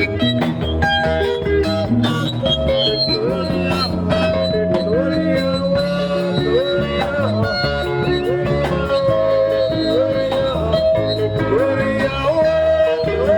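Live band music with guitars over bass and a steady drum beat, the lead line repeatedly sliding up into a held note.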